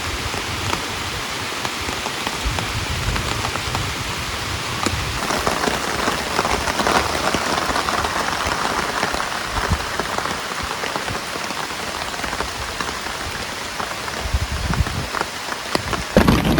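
Steady rain falling, a dense patter with single drops ticking out from it.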